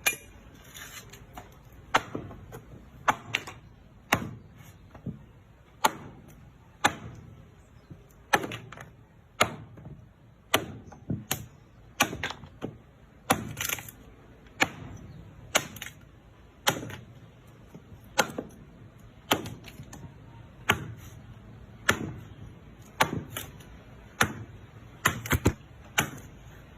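Knife chopping through metal in a long run of sharp strikes, about one a second, sometimes two in quick succession, each dying away quickly.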